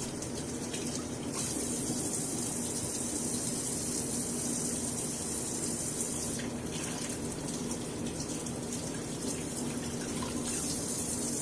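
Kitchen tap running steadily, its rushing hiss getting brighter and duller a few times, over a faint low steady hum.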